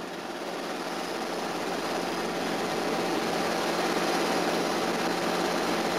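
Robinson R22 helicopter running, its Lycoming O-320 four-cylinder engine giving a steady drone that grows louder over the first few seconds.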